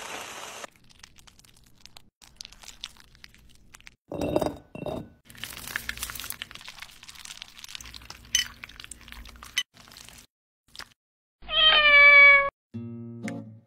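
A domestic cat meows once near the end, a loud call falling in pitch and lasting about a second. Before it come short scattered clinks, taps and rustles of kitchen work.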